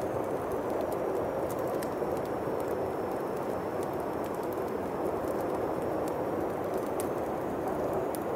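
Steady winter wind blowing, with a wood fire crackling over it in scattered sharp pops.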